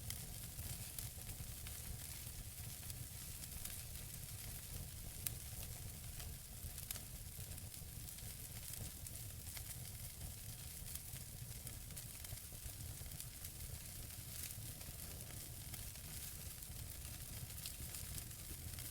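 Wood fire burning in a fireplace: a steady hiss and low rumble with frequent small crackles and pops from the burning logs, two sharper pops about five and seven seconds in.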